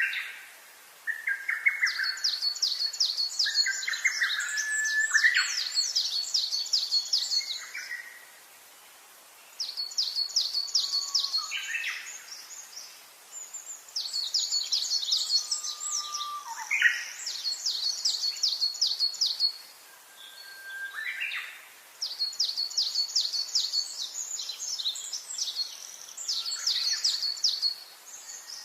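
Songbirds singing: four bouts of fast, high trilled notes, each lasting a few seconds, separated by short pauses, with shorter, lower whistled notes in between.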